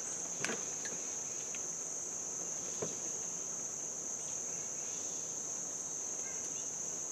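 Insects outdoors making a steady high-pitched trill, with a couple of faint clicks about half a second in and near three seconds.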